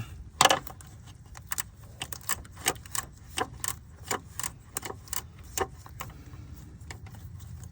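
Hand tools clicking and clinking on metal while working a cooling fan mounting bolt loose: a sharp click about half a second in, then a run of irregular clicks, two or three a second.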